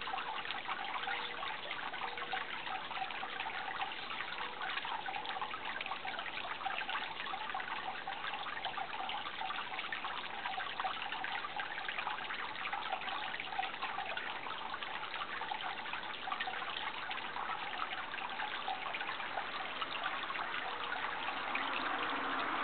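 Water trickling steadily, as from a small stream or runoff. Near the end a vehicle engine starts to come in underneath.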